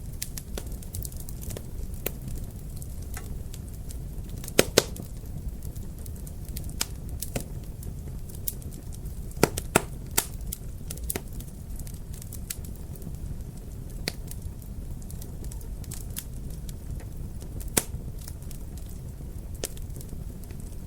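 Wood fire in a fireplace crackling: a steady low rumble under scattered sharp pops. The loudest pops come as a quick pair about four and a half seconds in, another pair near ten seconds, and a single one near eighteen seconds.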